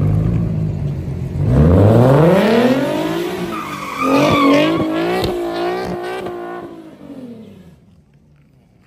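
Nissan 370Z's V6 revving hard as the car drifts, tyres skidding on wet pavement. The engine note climbs from about a second and a half in, holds high for a couple of seconds, then falls away and fades out near the end.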